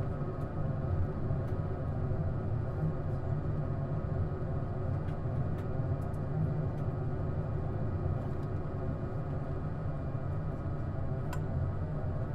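Airbus A220 cabin noise with its Pratt & Whitney PW1500G engines running at taxi: a steady low rumble with faint steady hums above it and a few faint clicks.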